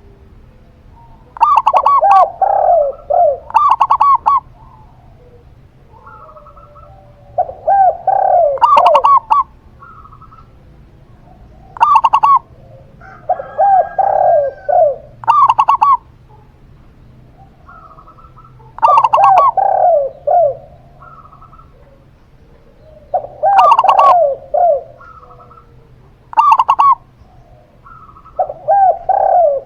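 Doves cooing in repeated phrases: short bursts of several coo notes come roughly every four to five seconds, with quiet gaps between.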